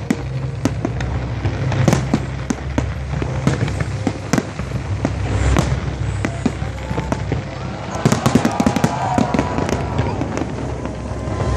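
Many sharp cracks and pops at irregular intervals, coming thick and fast for a moment about eight seconds in, over a steady low rumble.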